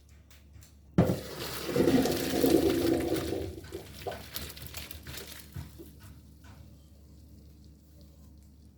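A cooking pot on the stove starts up suddenly, about a second in, with a loud hiss and bubbling that dies away over the next few seconds.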